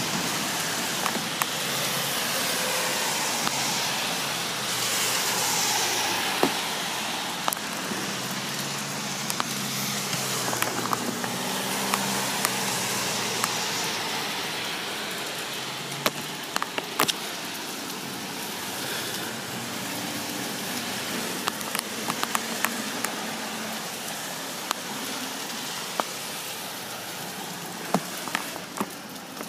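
Heavy rain falling: a steady hiss with many scattered sharp ticks of drops striking close to the microphone. A low hum of traffic on the wet road rises faintly in the middle.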